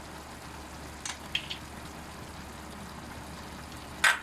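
Pot of chicken stew simmering on the stove with a steady low hum, a couple of faint clicks about a second in and one sharp clink near the end as ingredients go into the pot.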